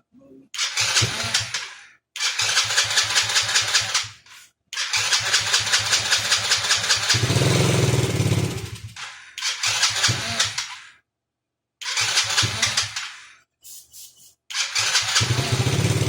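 Small single-cylinder engine of a Chinese 110cc kids' ATV being cranked over in six short attempts of one to four seconds each, with pauses between, without staying running.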